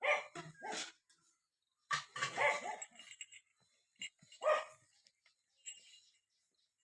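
A dog barking repeatedly in short barks, in clusters a second or two apart.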